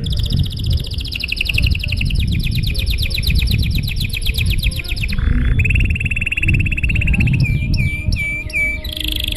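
Domestic canary singing an unbroken song of rapid trills. A fast high trill runs for about five seconds, then a lower trill, then a handful of quick down-slurred notes, and another high trill near the end, all over a low rumble.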